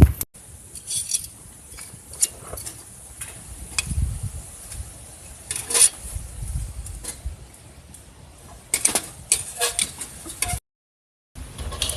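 Scattered clicks and light knocks, like objects being handled, with gusts of low rumble. The audio cuts out completely for under a second near the end.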